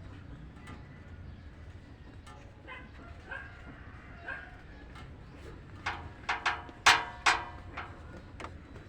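A dog barking, five or six sharp barks in quick succession about six to seven seconds in.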